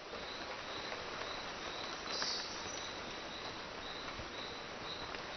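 Tropical forest ambience: a high animal chirp repeating about twice a second over a steady hiss, with a brief louder high call about two seconds in and scattered light clicks.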